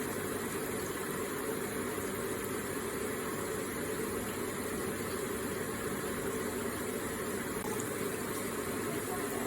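Electric water feature running: a steady, even burble of flowing water.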